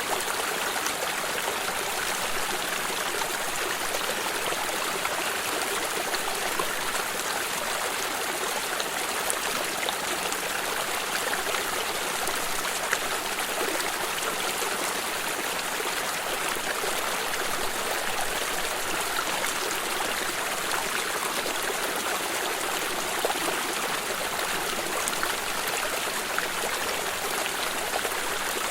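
Water stream flowing and trickling steadily, a continuous rush with small splashes.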